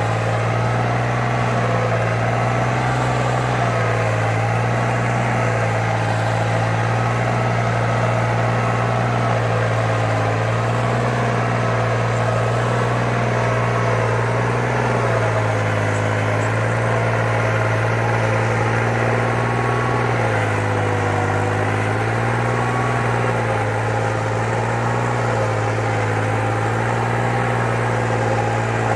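New Holland farm tractor's diesel engine running steadily, its pitch wavering slightly up and down as the load changes.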